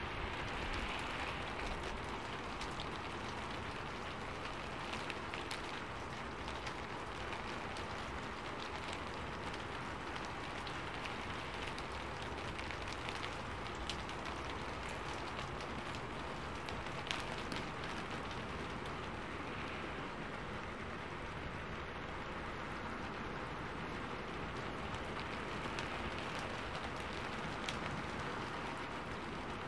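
Steady rainfall: an even hiss of rain with many scattered sharp taps of drops striking surfaces.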